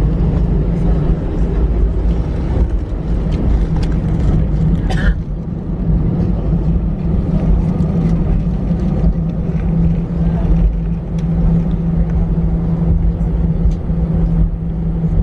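Steady low hum and rumble of an Airbus A319's engines at low power, heard inside the passenger cabin, with a brief squeak about five seconds in.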